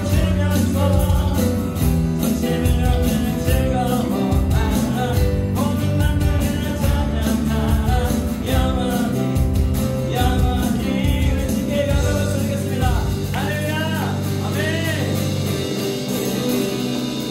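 Live worship band playing an upbeat song: a sung lead over acoustic guitar, keyboard, bass guitar and electronic drums. The bass and drums stop near the end, leaving the last chord ringing as the song finishes.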